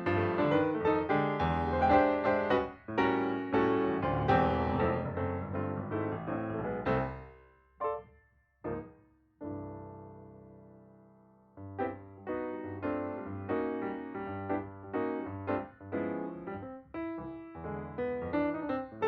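Background piano music. It fades away about seven seconds in, a single chord rings out, and the playing picks up again a few seconds later.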